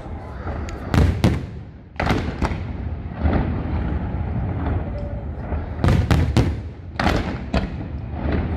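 Aerial fireworks shells bursting: about ten sharp bangs in clusters, each trailing off in an echo, over a continuous low rumble.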